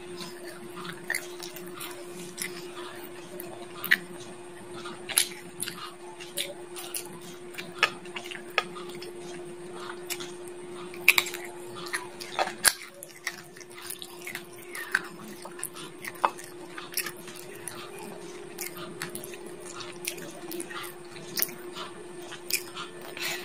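Close-up chewing of cooked chicken on the bone, with irregular sharp cracks and crunches as the teeth bite into the bones. A steady low hum runs underneath.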